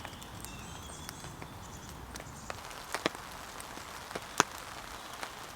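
Steady rain on a OneTigris Gastropod tent, with single heavy drops ticking sharply on the fabric now and then, the loudest about four and a half seconds in.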